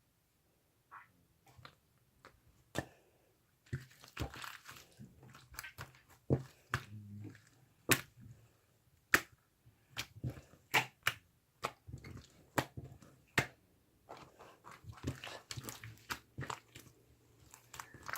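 A pearl-filled gel slime being pressed and squeezed by hand, giving irregular sharp clicks and pops mixed with short wet squishes.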